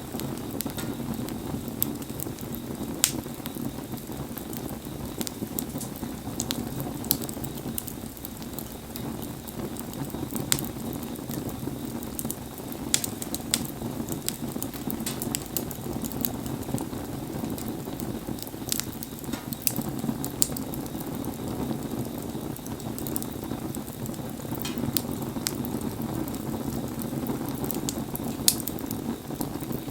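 Wood campfire burning in the rain: a steady hiss with scattered sharp crackles and pops, a dozen or so spread irregularly through.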